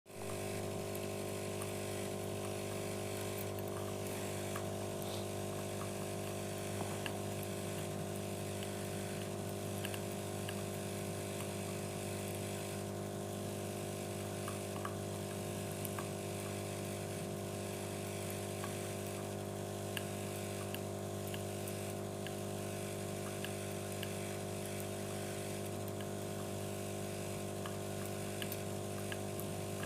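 A steady machine hum, even in level throughout, with faint scattered ticks over it.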